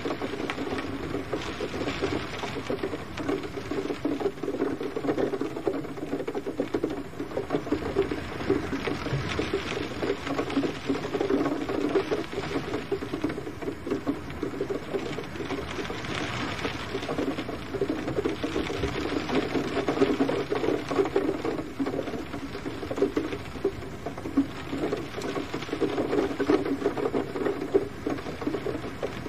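Gentle rain falling steadily: a dense patter of drops, fullest in the low range, swelling and easing slightly now and then.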